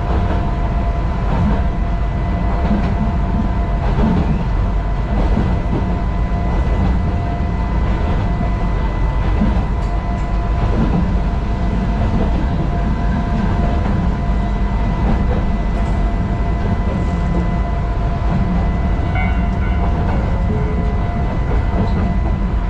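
Narrow-gauge (762 mm) electric train running along the track, heard from inside the driver's cab: a steady low rumble with the wheels clicking over rail joints and a thin steady whine above it.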